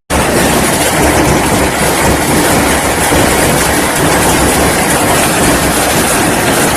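Heavy hail falling: a loud, steady, dense clatter of hailstones striking hard surfaces.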